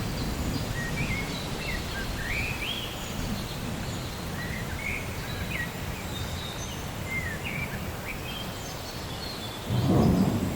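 Thunder rumbling low and steadily while birds chirp, with a louder thunderclap near the end.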